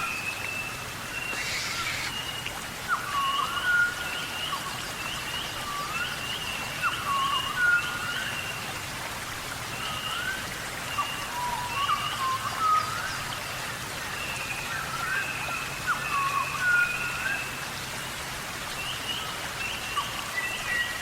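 Wild birds singing in a forest dawn chorus: one bird repeats short, hooked chirps that sweep up in pitch, while another keeps up a run of higher, short notes, over a steady hiss.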